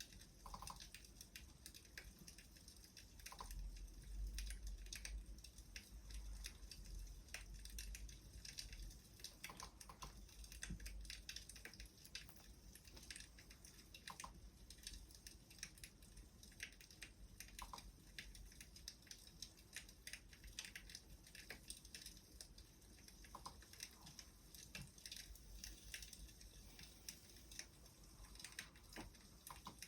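Faint crackling of a burning wood fire: irregular small pops and snaps, several a second, over a low steady rumble.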